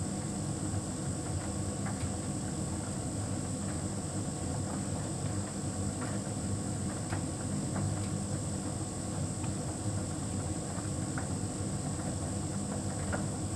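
Hotpoint heat pump tumble dryer running: a steady low hum with a constant high-pitched whine above it and a few faint ticks scattered through.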